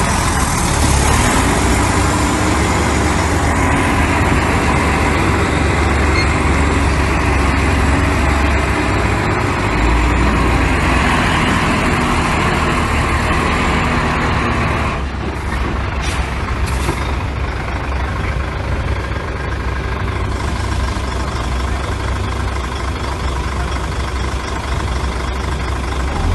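Heavy diesel construction machinery running steadily, with a deep low rumble and a broad hiss over it. About halfway through the hiss drops away, and a few short sharp sounds follow.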